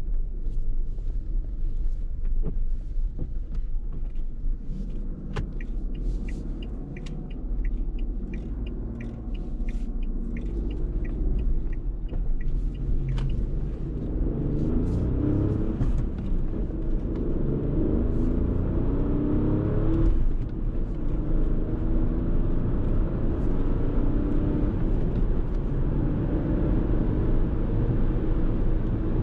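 Fiat Tipo's 1.0-litre turbocharged three-cylinder petrol engine running with road rumble, with irregular light clicks in the first half. About halfway through, the engine pitch climbs as the car accelerates, breaks off briefly for a manual gear change, then climbs again.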